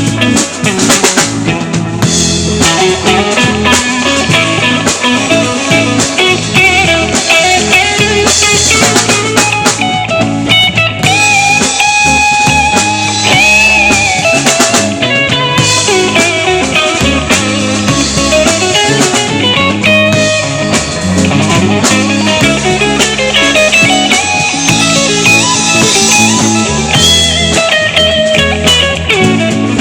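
A live band playing an instrumental passage of a blues-rock song: guitar melody lines with bent notes over a drum kit, with no singing.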